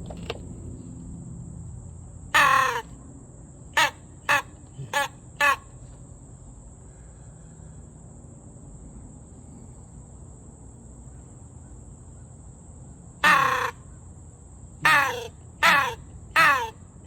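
Primos crow call blown to imitate crow caws, with the throat rolled while blowing. It gives one long caw followed by four quick short ones, then about ten seconds later another long caw and four more short ones, each caw falling in pitch.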